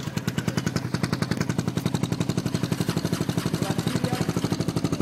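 Dirt bike's single-cylinder engine idling with a rapid, even pulse.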